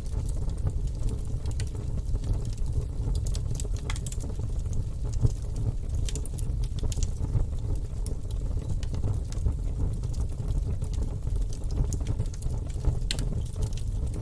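Wood fire burning in a fireplace: a steady low sound of the flames, with irregular sharp crackles and pops from the burning logs.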